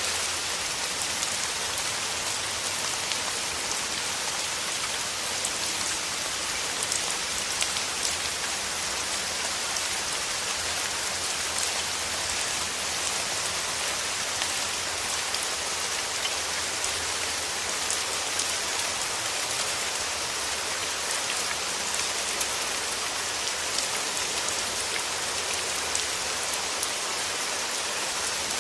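Steady rain falling, with dense pattering of drops on a surface and many fine drop ticks; even and unchanging.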